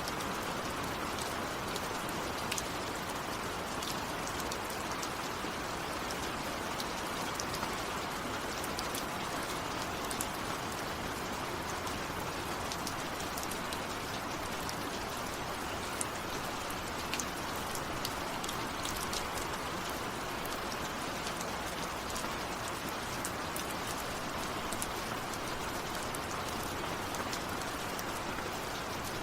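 Steady rain falling, with scattered sharp ticks of individual drops hitting close by.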